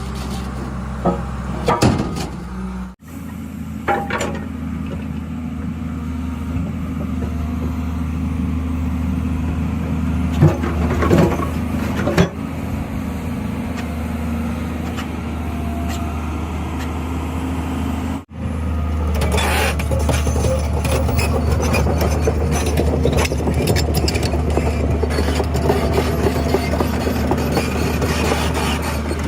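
A heavy machine's diesel engine running steadily, with scattered metallic knocks and clanks. The clatter becomes denser in the last third.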